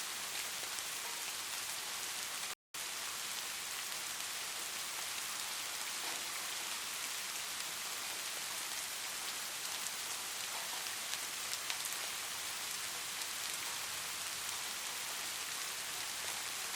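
Steady light rain: an even hiss with fine drop ticks. It cuts out to silence for a split second about two and a half seconds in, then resumes.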